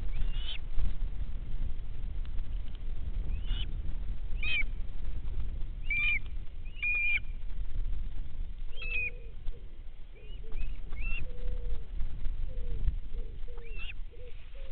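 Birds calling: a scatter of short, sharp high calls, and from about nine seconds in a run of short low notes repeated every half second or so, over a steady low rumble.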